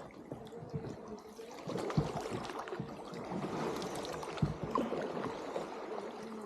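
Water splashing and trickling around a small paddled boat on a stream, with a few short knocks, the clearest about two seconds and four and a half seconds in.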